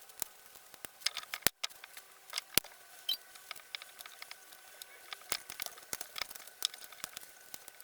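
Irregular light clicks and taps, a few of them sharper knocks, over a faint steady tone.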